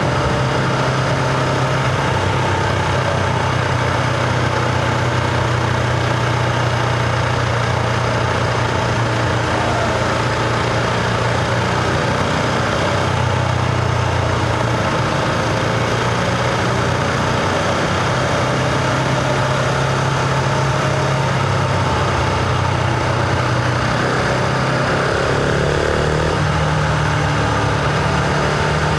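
Husqvarna Vitpilen 701's single-cylinder engine running steadily under way, recorded on board. The engine note drops a little about halfway through and climbs again near the end.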